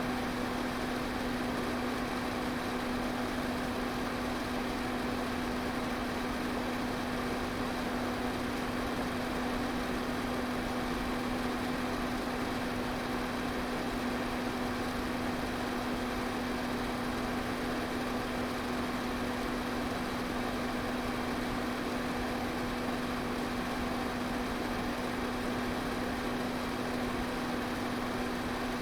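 Electric pedestal fan running steadily: an even rush of moving air with a constant low motor hum underneath.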